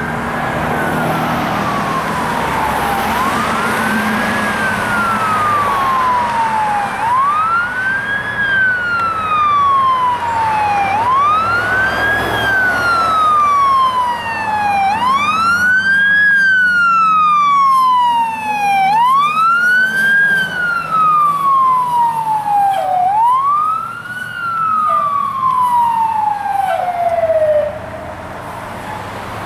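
Fire engine siren wailing in repeated cycles, each a quick rise in pitch and a slow fall, about every four seconds, over the truck's low engine rumble. The siren winds down and stops near the end.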